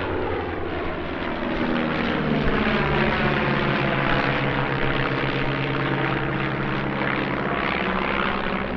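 Stampe SV.4 biplanes' piston engines droning in a formation fly-by, the sound growing louder about two seconds in and the pitch shifting slowly as the aircraft pass.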